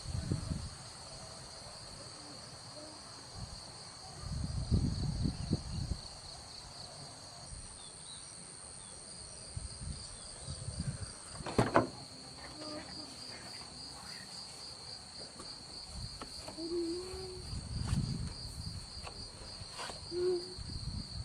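Night insects such as crickets trilling steadily in a high, evenly pulsing tone, with a few low rumbles and one sharp click about halfway through.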